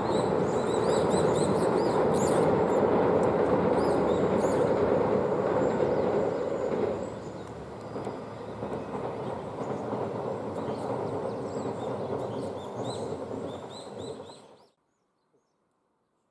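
2000 series diesel tilting express train running past: loud engine and rail rumble for about seven seconds, then quieter as it moves away. The sound cuts off suddenly near the end.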